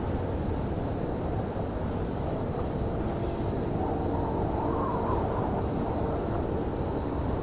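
Steady low rumble of a rail yard, with a few held droning tones and a thin, steady high whine; a faint tone swells and fades about halfway through.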